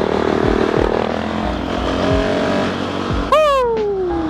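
Motorcycle running at road speed, with steady engine and wind noise. About three seconds in, a rider gives one loud 'woo' whose pitch falls away slowly.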